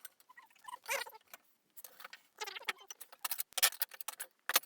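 Clicks, scrapes and light metallic clinks as a Trangia storm cooker's outer strap is unfastened and its nested aluminium parts are handled, growing busier and louder in the second half.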